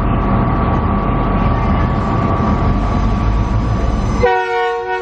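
Diesel locomotive engines running with a steady low rumble. About four seconds in, a locomotive's multi-note chord horn sounds, the usual signal for a departing train.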